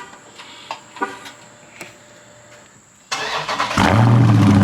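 Two short beeps, then a little after three seconds in the starter cranks and the Dodge Scat Pack's 392 HEMI V8 fires, flaring up loudly and holding a loud idle through the stock exhaust.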